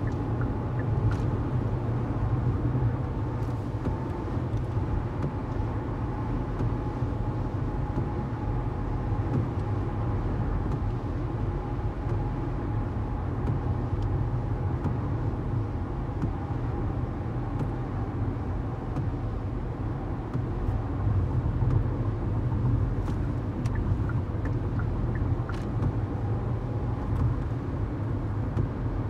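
Steady low rumble of a vehicle or engine, with a faint whine held near one pitch and a few light ticks.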